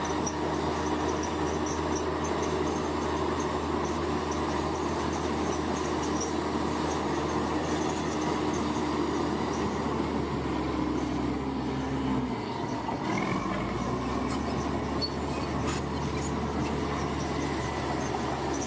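Bulldozer's diesel engine running steadily under load while its steel tracks squeak and clank. About twelve seconds in, the engine note dips briefly and then comes back at a slightly different pitch.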